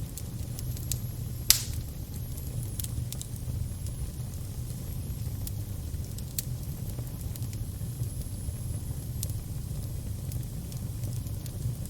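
Fire crackling: scattered sharp pops over a steady low rumble, with one louder pop about a second and a half in.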